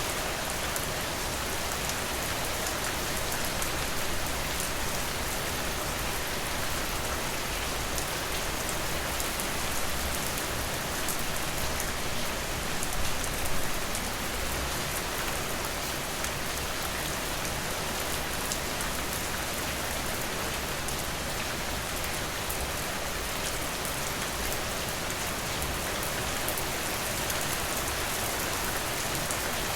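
Steady rainfall, with fine drop patter on a surface and a few slightly louder spells about halfway through.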